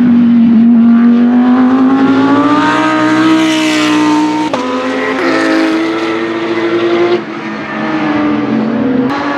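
Lamborghini Huracán GT3 Evo's naturally aspirated V10 race engine accelerating hard, its pitch climbing steadily. There is a sharp gear change about four and a half seconds in, then another rise and an abrupt drop in pitch about seven seconds in, after which it pulls on lower.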